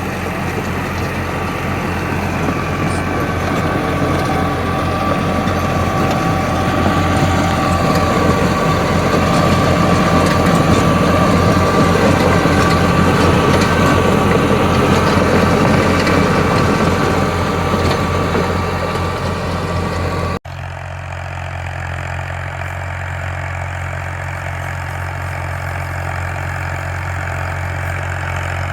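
NH Ghazi tractor's diesel engine running steadily under heavy load while driving a 54-blade rotavator through dry soil. The sound breaks off abruptly about two-thirds of the way through and carries on a little quieter.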